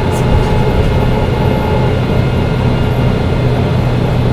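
Mercedes-Benz O405 N1 city bus under way: its straight-six diesel engine runs with a steady low drone.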